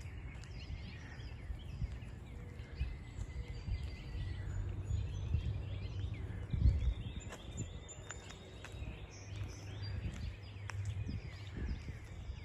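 Outdoor ambience: scattered faint bird chirps over a low steady rumble.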